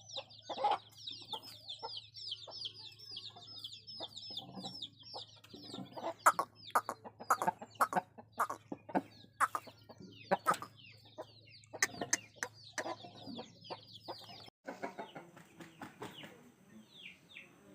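Aseel chickens clucking, with a fast run of short high chirps over the first half and a steady low hum that cuts off near the end.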